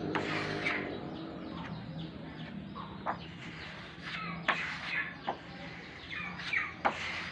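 Chickens clucking and chirping, with a rooster's crow tailing off at the very start and a few sharp clicks scattered through.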